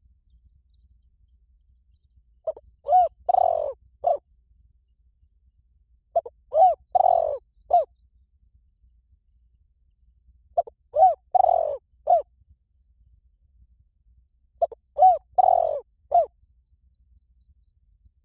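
Spotted dove cooing: four identical phrases about four seconds apart, each a short note followed by three low, arched coos, the middle one longest.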